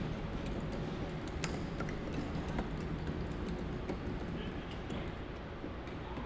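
Steel caster wheels of car wheel dollies rolling across a concrete floor under a car being pushed by hand: a steady rumble with scattered small clicks.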